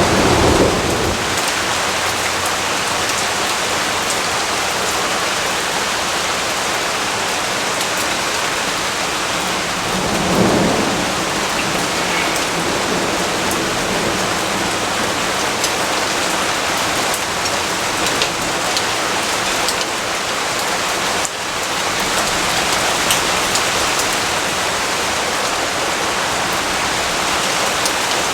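Steady heavy rain falling, with low thunder rumbling faintly under it at the very start and again about ten seconds in.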